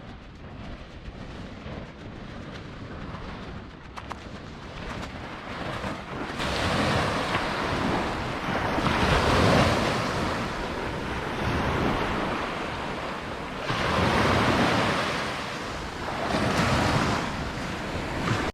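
Ocean surf washing onto the beach, getting louder about six seconds in and swelling and fading with each wave, with wind rumbling on the microphone.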